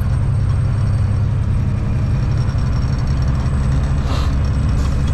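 Semi-truck diesel engine droning steadily with road noise, heard from inside the cab while driving.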